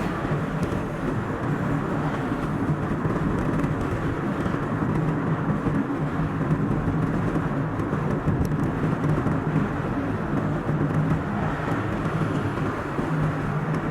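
A car driving on the road, with steady engine and tyre noise and a low hum that holds throughout, played back at double speed.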